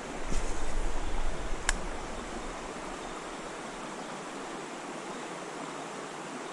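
Creek water rushing steadily, a little louder for the first couple of seconds, with one sharp click about a second and a half in.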